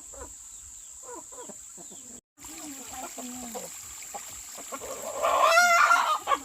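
Chickens clucking, with one bird giving a loud, wavering call about five seconds in.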